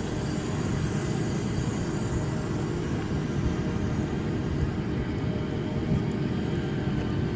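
Wind blowing around garage doors, a steady low drone with a few faint held tones.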